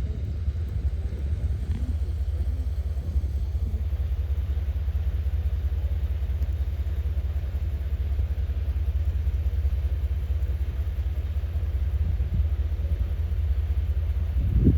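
Blizzard wind buffeting the microphone: a steady, loud low rumble that flutters without any clear pitch.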